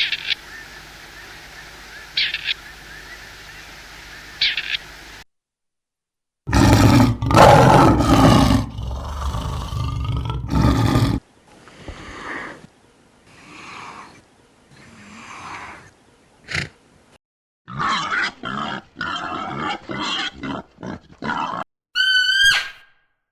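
A string of different wild animal calls one after another. A loud, deep roaring comes after a brief silence, followed by softer calls, a quick run of short calls, and a high, clear-pitched call near the end.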